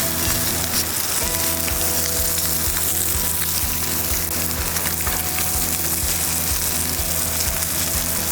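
Steak sizzling in a cast-iron skillet, a steady frying hiss, under background music with a regular low beat.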